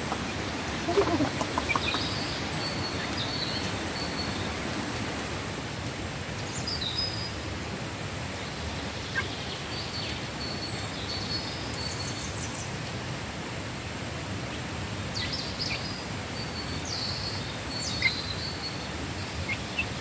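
Short, high chirps and peeps from birds, several at a time and recurring every few seconds, over a steady background hiss. A brief cluster of lower, louder sounds comes about a second in.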